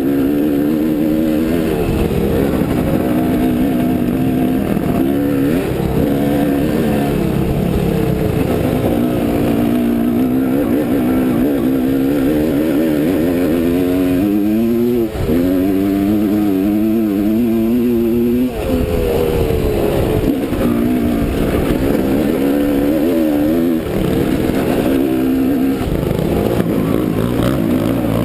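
Off-road motorcycle engine running hard, its pitch rising and falling again and again as the throttle opens and closes, with a couple of brief drops where it backs off.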